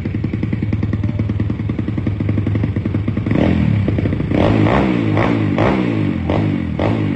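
125cc pit bike's single-cylinder engine idling steadily, then from about three seconds in revved in a series of quick throttle blips.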